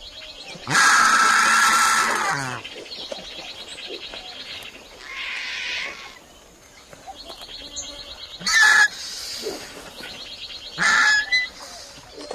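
Bird calls: a long harsh call about a second in, a softer one midway, and two short loud calls near the end, over a repeated high, fast rattling trill.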